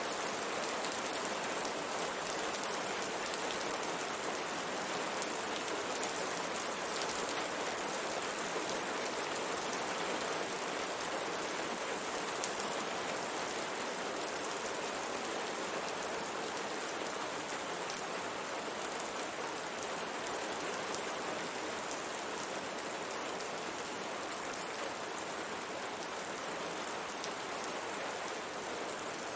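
Steady rain pattering on window glass, an even hiss with scattered faint drop ticks.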